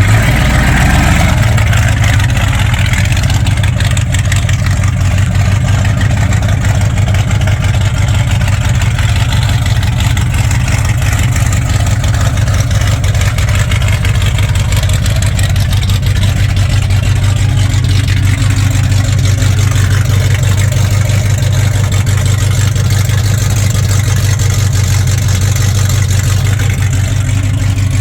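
Ford F-250 pickup's engine running steadily, a constant deep hum.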